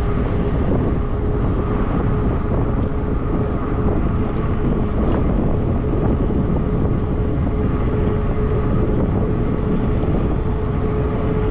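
Wind rushing over the microphone and road noise from a fat-tire e-bike cruising at a steady speed, with a steady hum underneath.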